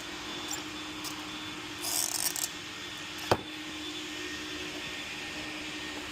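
A steady mechanical hum with a few brief scraping rustles, the longest about two seconds in, and one sharp click a little past three seconds in.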